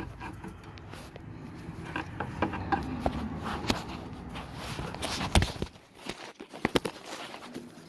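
Hand tool working at a two-part plastic fender retainer clip, trying to pop it out: scattered small clicks and scrapes of metal on plastic, with a sharper knock about five seconds in and a few quick clicks after it.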